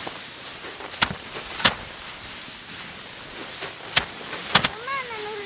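Sharp, irregular knocks from manual rice-harvest work, five in all, two pairs plus a double strike, over a steady outdoor hiss. A short voice-like call with a wavering pitch comes near the end.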